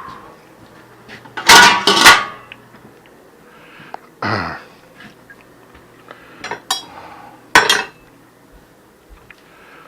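Dishes and cutlery clattering in a small room: a loud cluster of clinks about a second and a half in, then single sharper knocks near four and a half and seven and a half seconds, with a few lighter ticks between.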